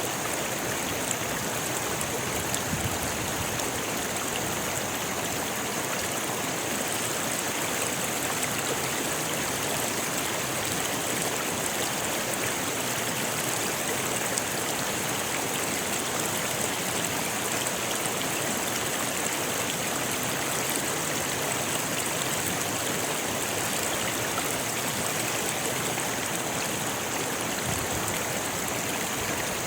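Rocky river flowing over stones, a steady, even rush of water with no breaks.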